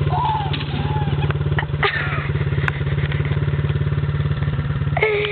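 Dirt bike engine running steadily at an even speed, with a single brief knock about two seconds in.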